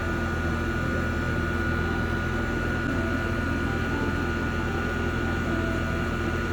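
Steady mechanical hum with a constant high-pitched whine and an even hiss underneath, holding at one level throughout.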